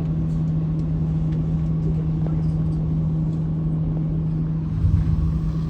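Sightseeing boat's engine droning steadily, a low even hum over rumble, briefly louder about five seconds in.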